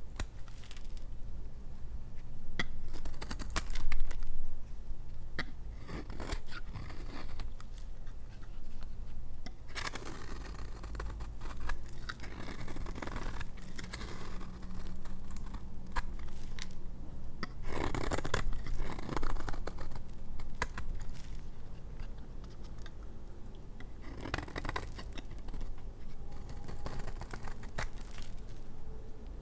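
Knife cutting bars of dry laundry soap: crisp scraping and crunching strokes with small clicks as the blade goes through the hard soap.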